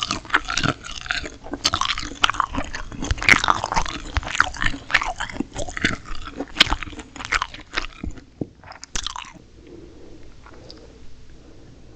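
Close-miked crunchy chewing of steamed shrimp with raw green chilli pepper, a rapid run of sharp crunches. About three-quarters of the way through, the crunching stops and only faint soft sounds are left.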